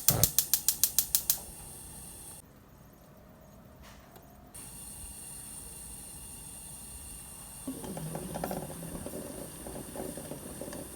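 A rapid run of about ten clicks in the first second and a half, followed by a steady hiss, with some rustling and clattering around eight seconds in.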